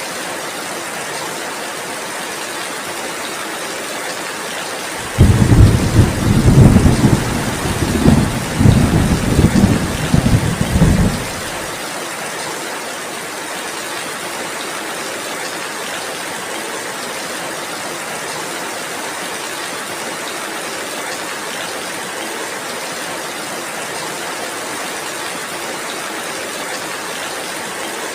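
Steady heavy rain hissing throughout. About five seconds in, a loud, deep rumble of thunder breaks in suddenly, rolls with several swells for about six seconds, then cuts off.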